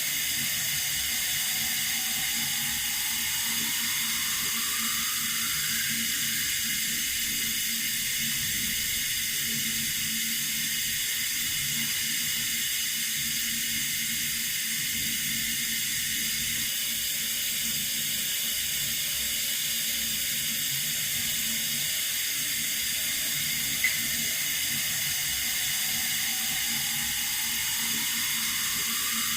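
Steady hiss of running water from a tap, with a faint tone that rises over a few seconds near the start and again near the end, and one small click.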